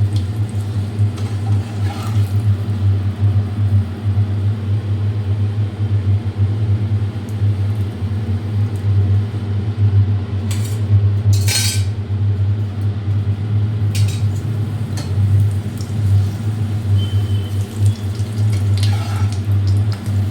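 Cooking at a pan, with a few sharp clinks and scrapes of a utensil against it, the clearest a little past the middle. A loud steady low hum runs underneath throughout.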